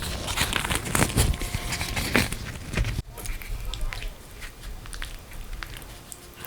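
Close-miked eating: bites and chewing, loud and busy for the first three seconds. After a sudden cut about three seconds in, quieter chewing follows with scattered small clicks.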